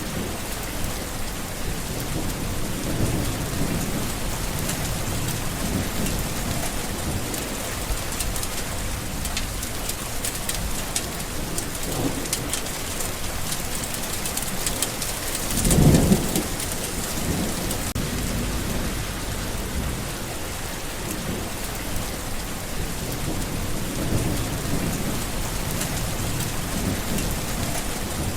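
Steady rain falling, with low rolls of thunder; the loudest thunder rumble swells up about halfway through.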